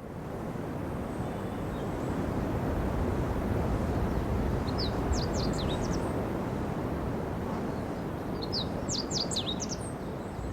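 Wild songbird singing in forest: two quick runs of high, sweeping notes, about five seconds in and again near the end, over a steady low rumble of outdoor ambience that fades up at the start.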